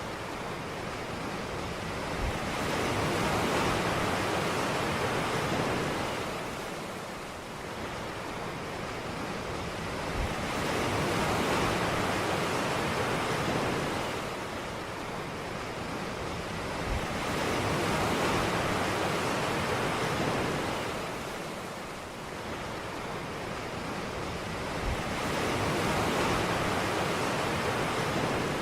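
Ocean waves breaking and washing up a beach, the surf swelling and fading in slow surges about every seven to eight seconds, four times over.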